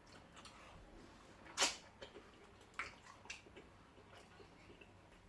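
Quiet eating noises at a meal: a few faint clicks, with one sharper click about one and a half seconds in.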